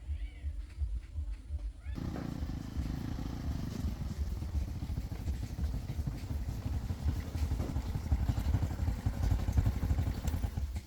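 Vehicle engine running with a steady rumble that comes in suddenly about two seconds in.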